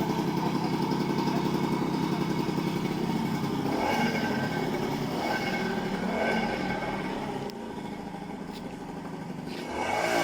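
A motor vehicle engine running with a fast, even beat for about four seconds, then fading into mixed outdoor noise, with a quieter stretch before the sound rises again near the end.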